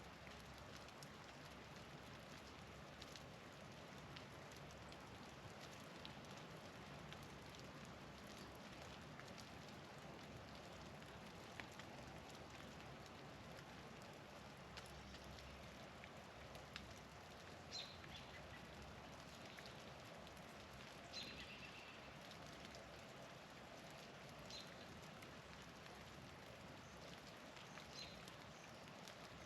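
Faint, steady hiss of falling precipitation, with a few faint, short, high bird chirps in the second half.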